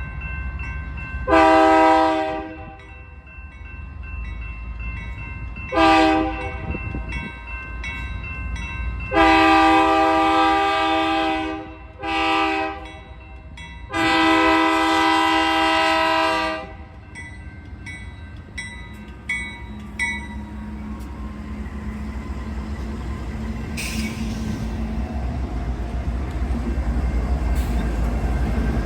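BNSF diesel locomotive's multi-tone air horn sounding five blasts, long and short alternating, over the low rumble of the locomotives' diesel engines. The engine rumble grows louder near the end as the locomotives draw closer.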